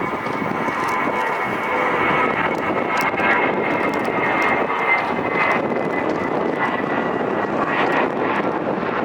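Jet airliner taking off: dense engine noise with a thin high whine, growing louder over the first two seconds and then holding steady.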